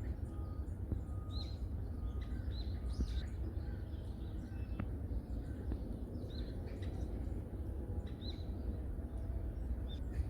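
Wild songbirds in a forest calling with many short, high chirps and brief whistled notes, scattered irregularly, over a steady low rumble.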